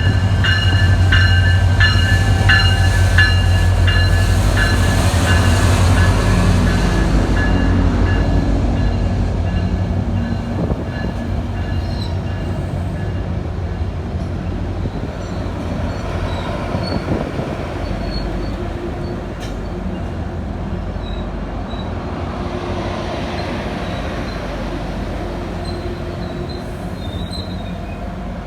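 A train at the station with its bell ringing about twice a second over a loud, steady low engine hum. After about eight seconds the bell stops and the sound fades to a rolling rumble with faint, brief wheel squeals.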